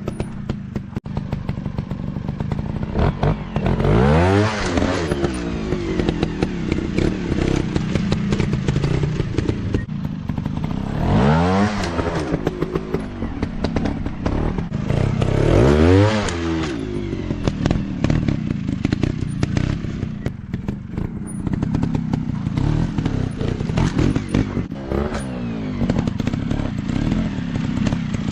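Dirt bike engine running, with three surges where the revs climb and then drop, about 4, 11 and 16 seconds in.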